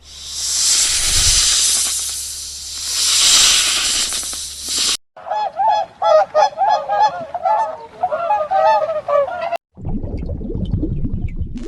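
A loud rushing noise for about five seconds, then a goose honking rapidly and repeatedly for about four seconds. The honking cuts off suddenly, and a low rumbling noise follows.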